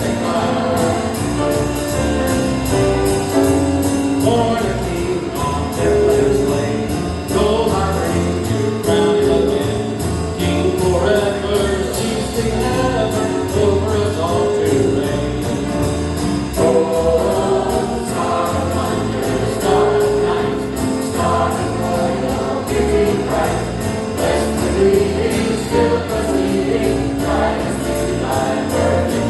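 Church choir singing a jazz-style Christmas song with band accompaniment and a steady swing beat.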